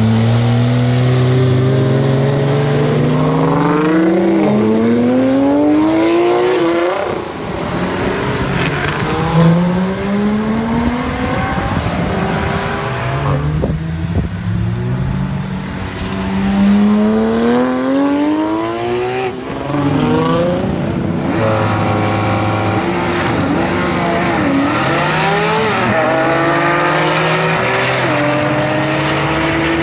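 Supercar engines, a Porsche 997 GT3's naturally aspirated flat-six among them, accelerating hard through the gears. Several long rising engine notes are each broken off by an upshift, and a steadier engine note with short throttle blips comes near the end.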